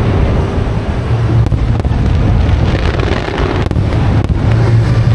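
Aerial fireworks display going off: a continuous low rumble of bursts with sharp cracks scattered through it, and wind buffeting the microphone.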